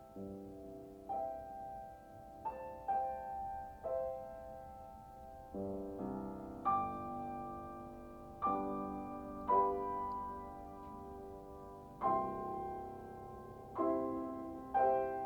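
Slow, gentle solo piano music: soft chords struck every second or so and left to ring and fade.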